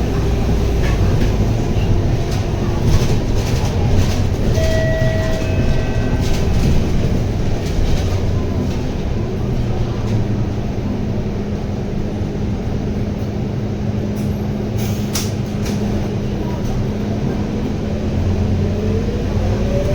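Scania K230UB bus on the move, its Scania DC9 engine and ZF Ecomat automatic gearbox giving a steady low drone with a held whine, rising in pitch near the end as the bus picks up speed. A few sharp clicks come about three-quarters of the way in.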